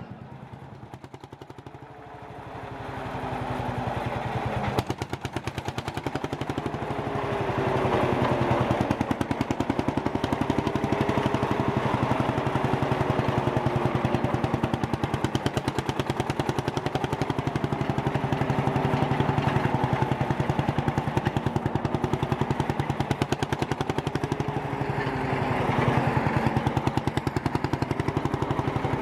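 Vintage tractor engine running with a rapid, even firing beat. It swells louder over the first several seconds, then holds steady with small shifts in pitch.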